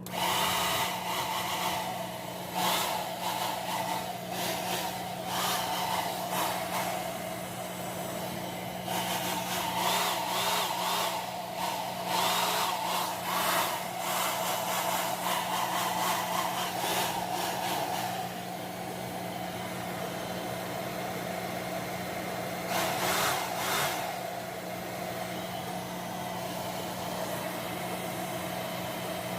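Hair dryer running with a steady motor hum and rushing air, with brief louder rushes of air now and then, the strongest about two-thirds of the way through.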